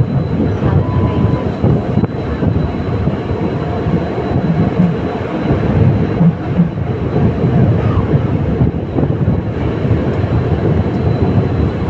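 Diesel-hauled passenger train running, a steady loud rumble with most of its weight in the low end.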